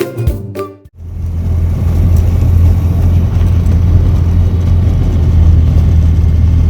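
Background music cuts off about a second in, then the steady drone of a Challenger II ultralight plane's engine running.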